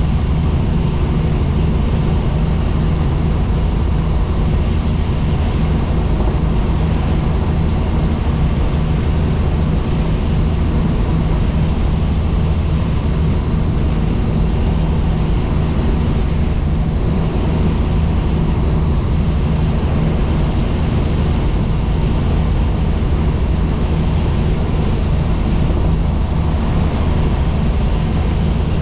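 Helicopter in flight, its rotor and turbine engine making a loud, steady drone with a deep hum.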